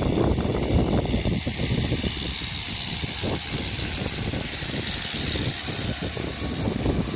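Mahindra 575 tractor's diesel engine running steadily.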